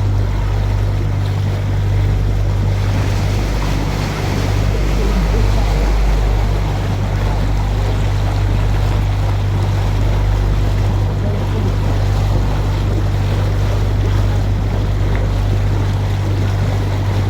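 Canal tour boat's engine running steadily, a deep continuous drone, with a rushing noise of water and air over it.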